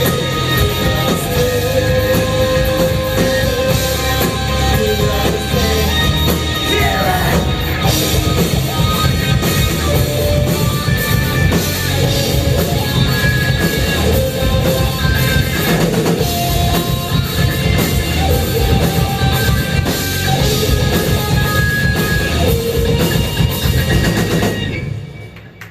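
Live rock band playing, with drum kit and electric guitar carrying long held lead notes. The music drops away sharply near the end.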